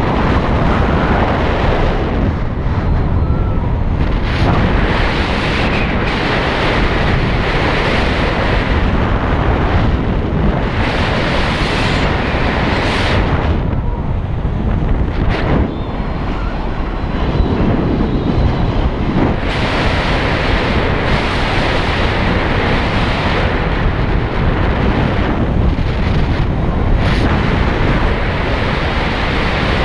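Loud wind buffeting the microphone on a moving motorcycle, with engine and road noise underneath. The rush rises and falls a little but never stops.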